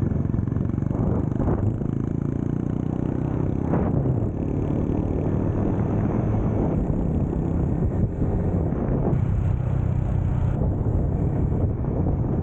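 Small motorcycle engine running steadily while riding, its pitch shifting slightly as the throttle changes.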